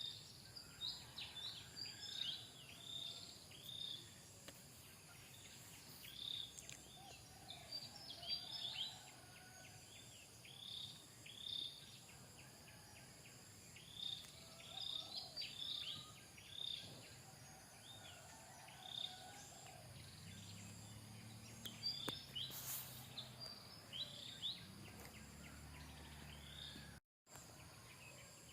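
Runs of short, high chirps falling in pitch, several a second, broken by pauses, over a steady high insect drone. A low hum comes in about two-thirds of the way through.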